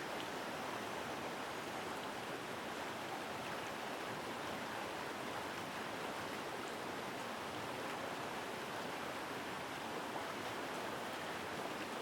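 Forest river water flowing strongly and steadily: an even rushing that does not change, with no separate splashes standing out.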